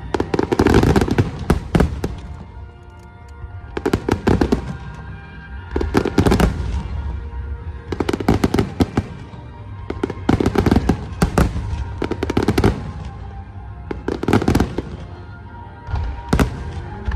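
Aerial fireworks bursting in rapid crackling volleys, a new cluster of bangs about every two seconds, with music played alongside the show.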